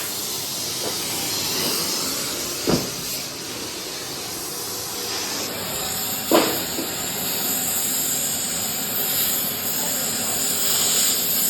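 A steady hissing noise, with two sharp knocks about two and a half and six and a half seconds in.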